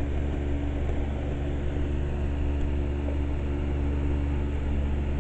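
Vintage Hunter table fan running on high: a steady electric motor hum under the even rush of air from its blades, blowing toward the microphone.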